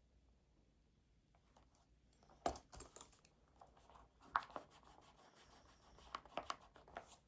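Faint, irregular desk-work sounds: a string of small clicks, taps and papery scratches and rustles. The sharpest clicks come about two and a half seconds in and again a little after four seconds.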